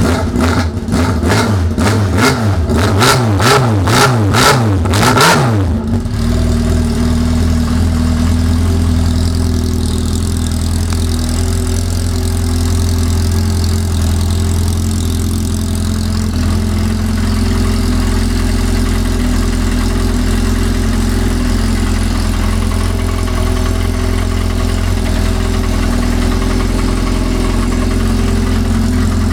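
Yamaha RX-1 snowmobile's four-stroke inline-four revved through an aftermarket White Knuckle exhaust with MIG Concept extension: a quick series of throttle blips, each rising and falling, for about the first six seconds, then the engine settles into a steady idle.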